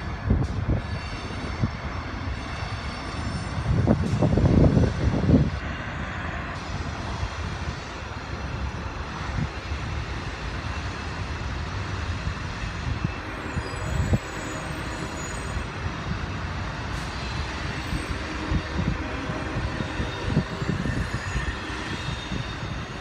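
Freight train of covered hopper cars rolling past: a steady rumble of wheels on rail with dense clattering knocks, swelling louder for a second or so about four seconds in.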